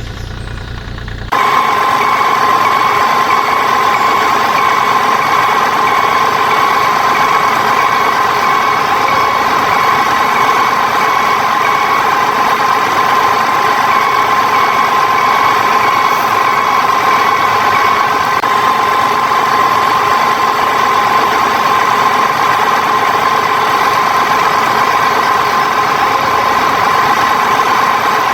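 A motor running steadily with a constant high whine, switching on abruptly about a second in and holding an even pitch throughout.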